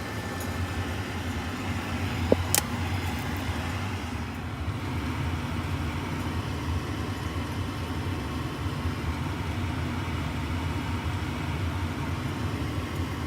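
Gas furnace's induced draft inducer motor running steadily with a low hum, the pre-purge stage before the hot surface igniter lights. A single sharp click sounds about two and a half seconds in.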